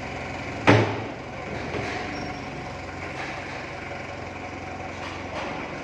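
John Deere diesel engine running steadily, with one sharp metallic knock about a second in.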